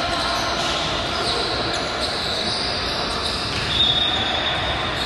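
Basketball game in a gym: a steady mix of court and hall noise, with a high, steady squeal lasting just over a second near the end.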